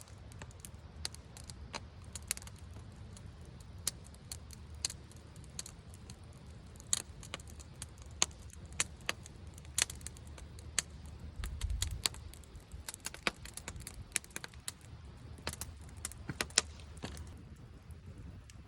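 Campfire crackling: irregular sharp pops and snaps from the burning wood, over a steady low rumble that briefly grows louder about twelve seconds in.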